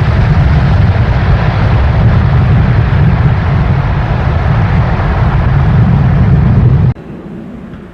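Jet airliner's engines at close range: a loud, steady rumble with a hiss over it, cut off abruptly about seven seconds in, leaving a much quieter background.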